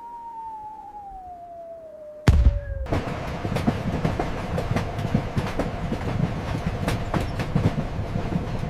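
A single tone falling in pitch, then about two seconds in a sudden loud thud gives way to a steady, dense rattling clatter of many sharp clicks over a constant hum.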